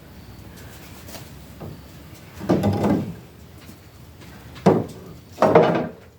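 Three loud wooden clunks and scrapes a second or two apart, the first and last each lasting about half a second: boards or framing being handled.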